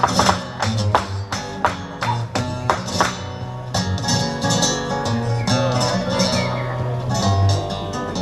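Flamenco music on acoustic guitar: quick sharp strummed strokes for about the first three seconds, then more held, ringing notes.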